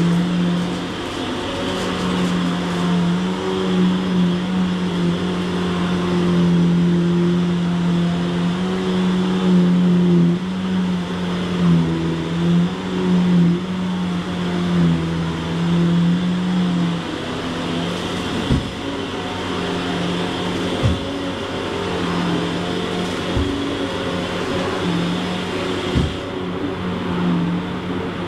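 Shark Stratos XL Pet Pro upright vacuum cleaner running as it is pushed over carpet matted with dog fur: a steady motor hum that wavers slightly in pitch over a rushing of air, with a few short knocks in the second half.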